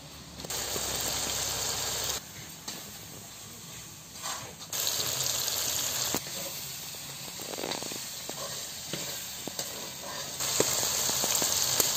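Curry masala sizzling and frying in a metal kadai over a wood fire, with light scrapes and clicks of a spatula stirring it. The hiss jumps louder in a few stretches that start and stop abruptly.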